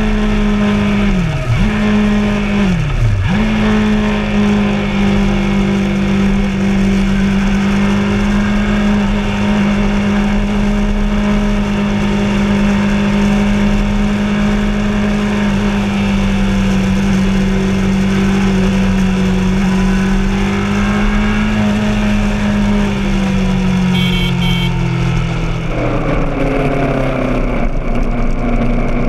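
Honda CBR600RR's inline-four engine running at steady high revs under way, with two brief dips in pitch in the first few seconds. The revs fall away steadily near the end.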